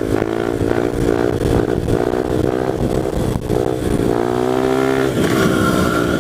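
1998 Honda XR100 pit bike's single-cylinder four-stroke engine, fitted with an FMF exhaust, revving hard under acceleration with a rising pitch. It eases off briefly about three and a half seconds in, climbs again, then drops to a lower steady note about five seconds in.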